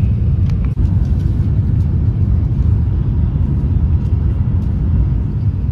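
Steady low rumble of a Tokaido Shinkansen bullet train running at speed, heard from inside the passenger car.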